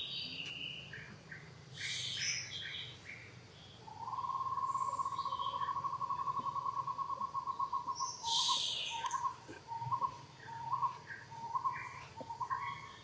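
Wild bird calling: a long, fast, even trill held at one pitch for about four seconds, then a string of short repeated notes at the same pitch. Sharp high chirps come about two seconds in and again near the middle.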